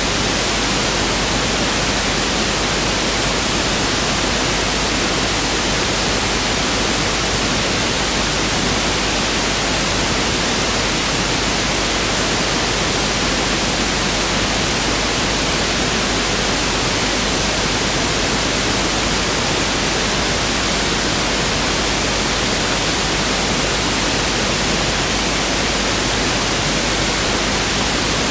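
Pink noise (1/f) test signal: a steady, even hiss that does not change.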